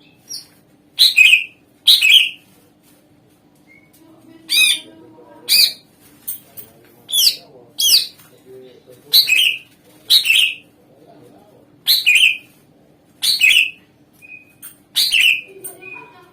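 Greater green leafbird (cucak ijo) giving loud, short calls about once a second, mostly in pairs, each call sweeping downward in pitch.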